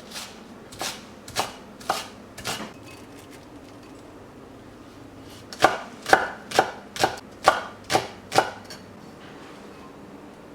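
Kitchen knife chopping food on a cutting board: five cuts about half a second apart, a pause of about three seconds, then a quicker run of seven cuts.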